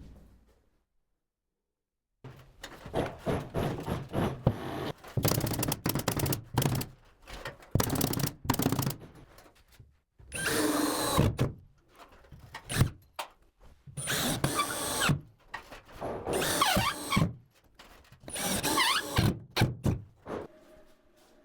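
Cordless drill-driver running in repeated short bursts, its motor pitch sliding as it speeds up and slows: screws being driven into the ceiling framing.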